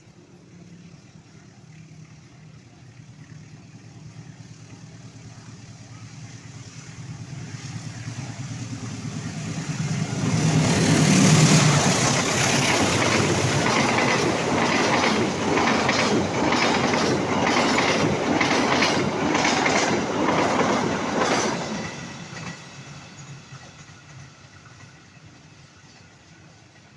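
A train approaches and passes close by, loudest about eleven seconds in. Its wheels then clatter in a steady rhythm over the rail joints for several seconds as the cars go by, and the sound fades as it moves away.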